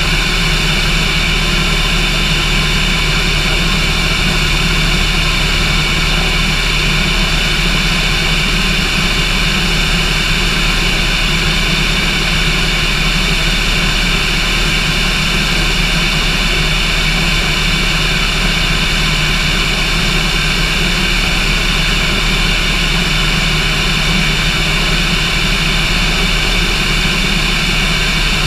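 Cessna airplane's engine droning steadily at constant power, with no change in pitch or loudness.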